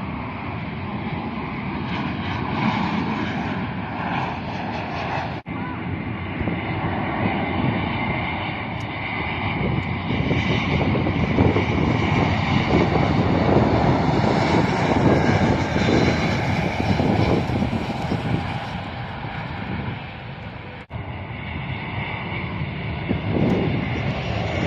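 Jet airliner flying low near the airport, its engine noise a steady rush that swells to its loudest about halfway through and then eases. The sound breaks off abruptly twice for an instant.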